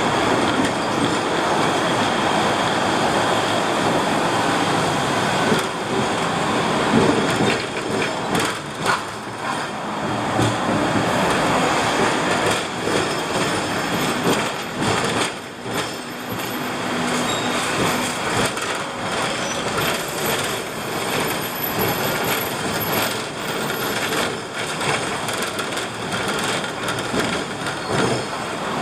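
Hong Kong double-decker electric tram running on street track: a steady rolling noise with scattered knocks and rattles from the wheels and rails.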